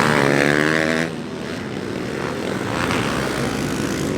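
Motocross dirt bike engines at high revs. One bike is loud for about the first second, then drops away, leaving a steady mix of engine noise.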